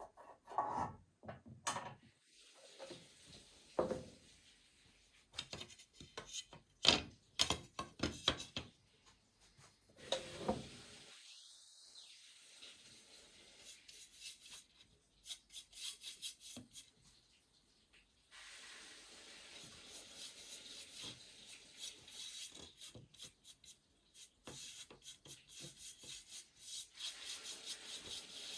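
Rubbing strokes on a wooden baseboard, brush or hand work on the wood. The first half holds scattered knocks and clicks. From about two-thirds of the way in comes a steady run of quick, closely spaced strokes.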